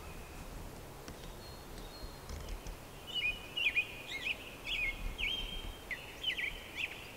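Birdsong: faint thin whistles at first, then from about three seconds in a quick run of short chirping notes that sweep downward, over a faint outdoor hiss.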